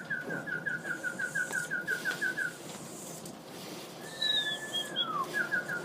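A person whistling to call pigeons into the loft. A held note runs into a quick string of short chirped notes, about six a second. About four seconds in comes one long falling whistle, then another quick string of notes near the end.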